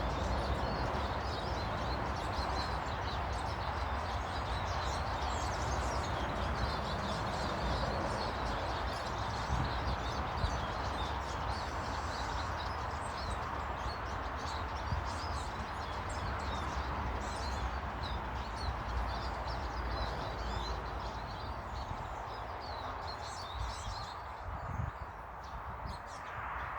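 Small garden birds chirping and twittering over a steady rushing background noise; the chirps thin out near the end.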